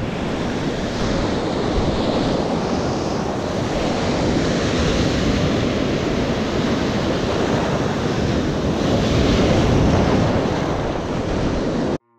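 Ocean surf and rushing water with wind buffeting the microphone, cutting off abruptly near the end.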